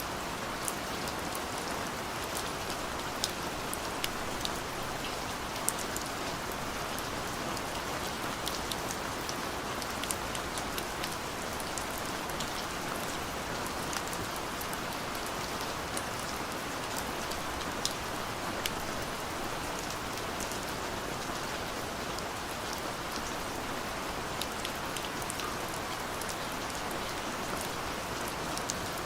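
Steady rain falling, an even hiss with many small drop impacts pattering throughout.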